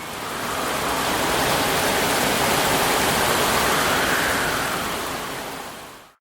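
Storm wind sound effect: a steady rushing hiss that swells in, rises and falls slightly in pitch, and fades out near the end.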